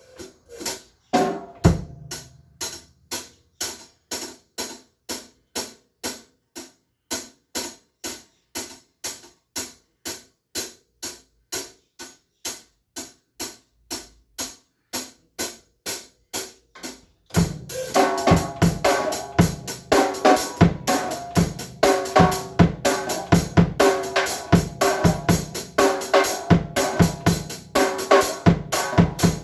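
Drum kit played in a steady pattern. For the first part a lone hi-hat keeps an even tick about twice a second. From about 17 seconds in, a full beat comes in with bass drum, snare and cymbals, noticeably louder.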